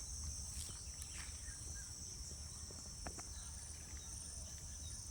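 Steady high-pitched insect chorus trilling without a break, over a low rumble, with a few faint ticks.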